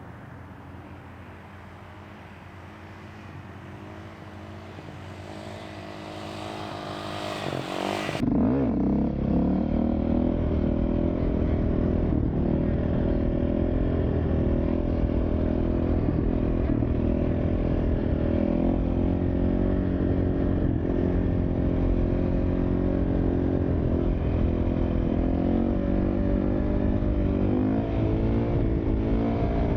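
Dirt bike engine, faint and growing louder over the first several seconds. About eight seconds in it turns abruptly loud and keeps running, its pitch rising and falling a little with the throttle.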